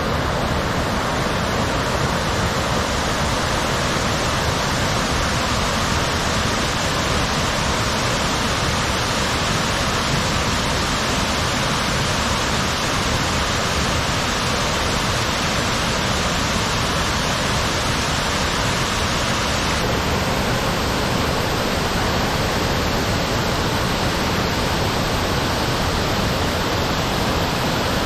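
Iwatsuka Falls pouring: a loud, steady rush of falling water.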